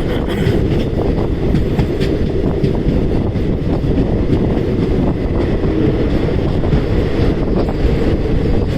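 Indian Railways passenger train running along the track: a steady, loud low noise of wheels on rails, with faint scattered clicks.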